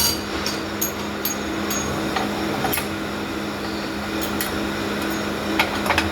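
Workshop machinery running with a steady hum, with about a dozen sharp, light metallic clinks and taps scattered through it, some ringing high, the loudest at the start and near the end.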